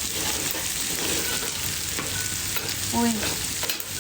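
Firewood cooking fire burning hard, with a steady hiss and many small crackles, after alcohol was added to make it flare up.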